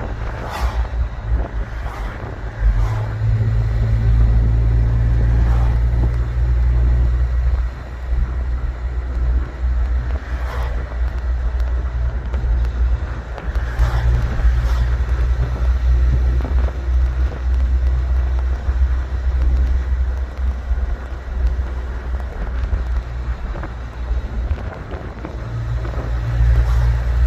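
Car driving: a steady low rumble of engine and road noise, with a few light knocks.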